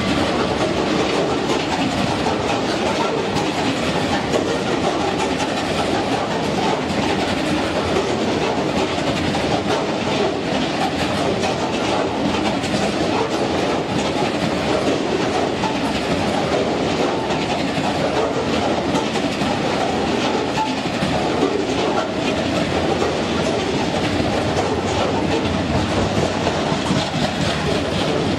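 Heavy freight train rolling steadily past, its wagon wheels clattering over the rail joints.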